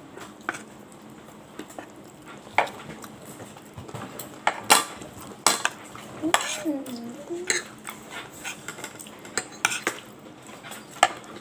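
Scattered clinks and clatters of cutlery against plates and dishes during a meal, with a brief wavering pitched sound about six seconds in.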